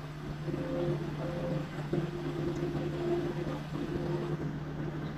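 An engine running steadily, a continuous low hum, with shorter higher tones coming and going over it.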